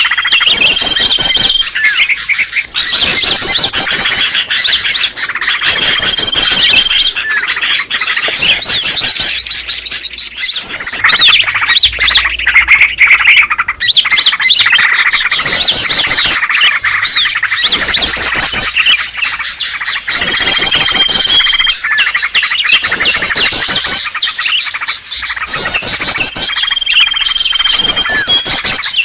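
Green leafbirds (cucak ijo) calling in a noisy, agitated chorus: dense rapid trills and chirps, with a single held whistle coming back every several seconds. A bird-trapping lure recording meant to draw in wild leafbirds.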